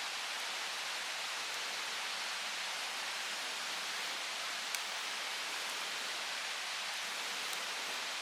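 Steady hiss of water, even in level throughout, with a few faint ticks.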